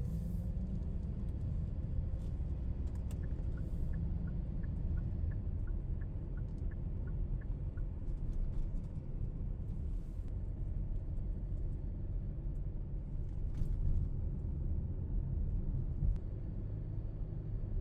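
A steady low rumble, with a run of about a dozen faint, short, high peeps a few seconds in and a few scattered faint clicks.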